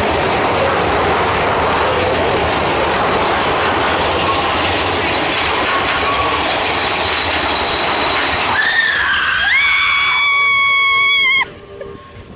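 Mine-train roller coaster running along its track: loud rushing wind and track clatter. Near the end a high, held squeal comes in for a few seconds, then the sound cuts off suddenly.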